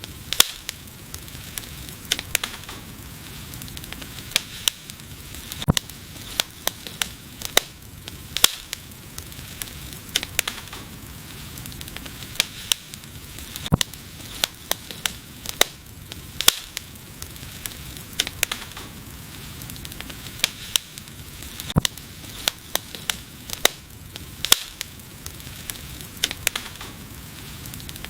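Wood fire crackling, with sharp pops scattered irregularly over a steady soft hiss.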